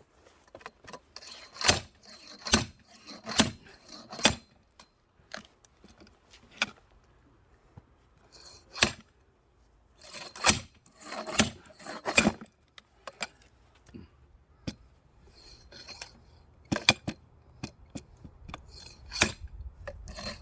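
Axe blows splitting firewood logs: a dozen or so sharp strikes in groups with pauses between, some with a metallic clink.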